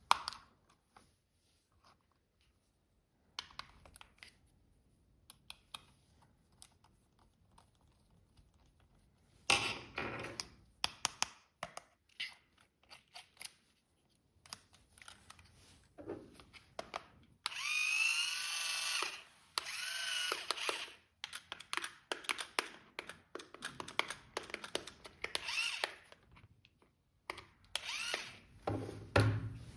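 Plastic clicks and knocks from a remote-control toy vehicle being handled. Just past the middle, a small electric motor whirs for a few seconds with a wavering pitch, followed by more rapid clicking.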